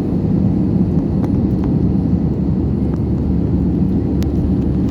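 Steady low rumble of an airliner's engines and cabin air, with a few faint clicks.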